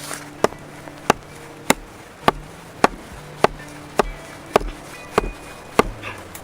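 Repeated blows of a tool striking wood, about ten sharp strikes in an even rhythm a little over half a second apart.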